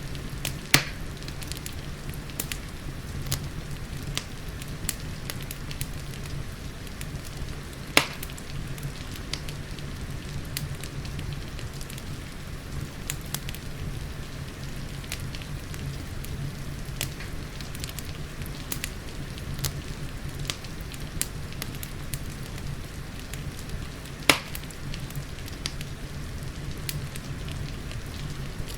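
Wood fire in a fireplace crackling, with frequent small snaps and three loud pops spread through the stretch, over a steady bed of rain.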